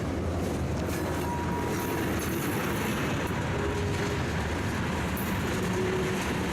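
Freight train rolling past: a steady rumble of cars on the rails, with a few brief, faint thin tones over it.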